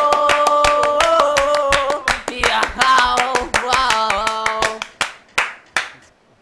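Hand clapping in a quick, steady rhythm over held, pitched notes that step between chords; the music stops about five seconds in, leaving a few last, fading claps.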